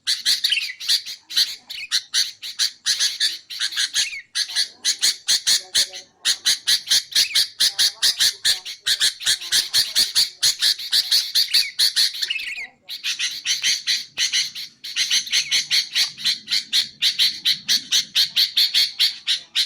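Sooty-headed bulbul calling: rapid runs of sharp, repeated chattering notes, broken by a few short pauses. Played as a lure call to attract wild bulbuls.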